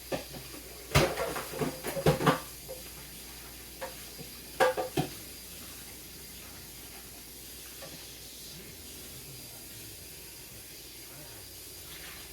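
Kitchenware clattering: a quick cluster of knocks with short ringing about a second in, and another pair near five seconds, over a steady faint hiss.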